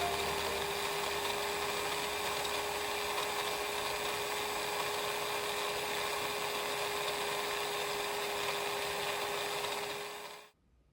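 Laser engraver running: a steady machine hum with a constant mid-pitched whine, stopping abruptly shortly before the end.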